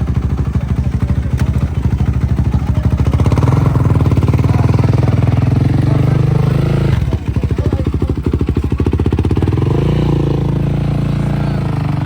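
Dirt bike engine running close by and being revved, its pitch rising and falling a few times, with a sharp dip about seven seconds in.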